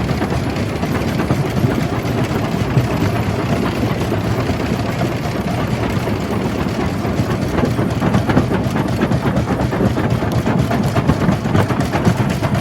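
Jaw crusher running loaded, a steady heavy rumble with dense, continuous cracking and knocking as rock is crushed between the jaws.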